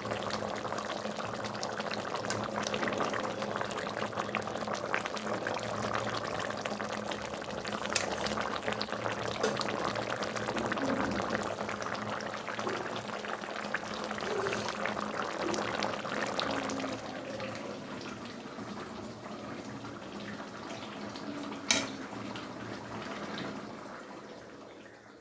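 Fish curry broth bubbling at a boil in the pan, a busy crackling simmer, with a few sharp clicks scattered through it. It dies away near the end.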